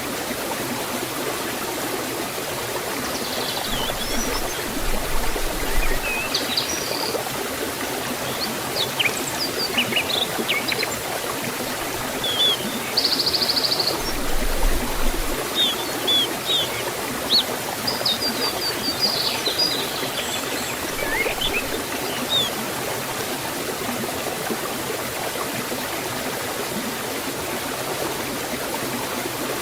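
Steady rush of a forest waterfall and stream. Small birds chirp and call over it from about three seconds in, with one short buzzy trill near the middle, falling quiet about three-quarters of the way through.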